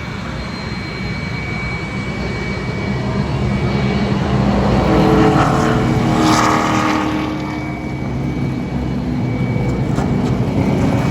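Steady engine rumble from a vehicle on the speedway, with one pass-by swelling louder about five seconds in, its pitch rising and then falling, and fading away by about eight seconds.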